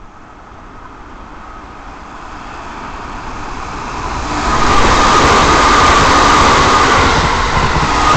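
Keikyu 600 series eight-car electric train passing through the station at speed without stopping: the rumble of its wheels on the rails swells over about four seconds and stays loud as the cars go by, with a steady high whine on top.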